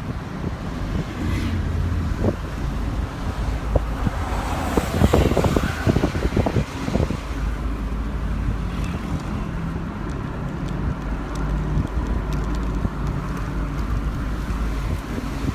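Wind buffeting the microphone from a moving vehicle, a low gusty rumble over road noise, with short thumps of stronger gusts around the middle.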